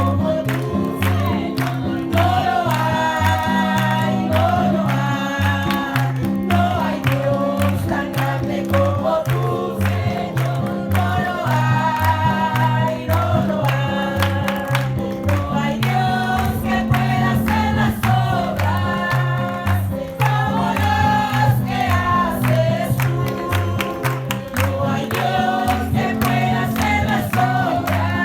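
A group of voices singing Spanish-language revival choruses in an upbeat Christian medley, over instrumental backing with a low line that pulses with an even beat.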